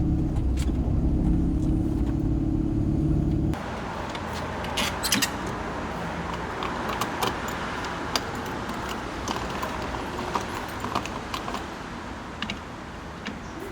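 Jeep Cherokee engine running steadily. About three and a half seconds in it cuts off abruptly into outdoor noise with scattered sharp clicks and light metallic rattles.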